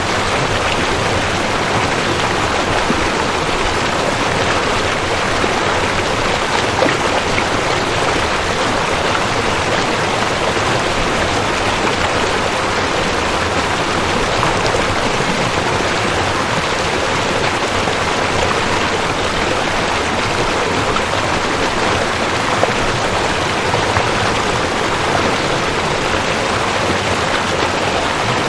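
Rushing creek water running steadily over rocks, a dense even splashing rush with a few small splashes rising out of it.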